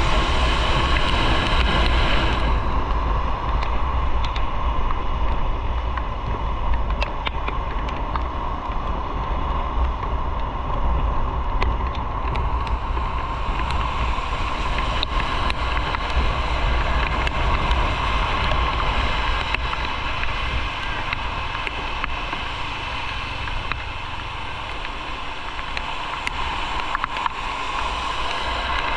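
Motorcycle on the move: a steady rush of wind on the microphone over the low rumble of engine and road noise. It eases a little for a few seconds near the end.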